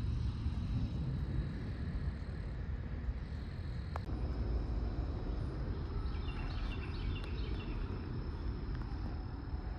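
Outdoor ambience: a steady low rumble with a thin, steady high tone, broken by an abrupt cut about four seconds in. A short run of high chirps comes after the middle.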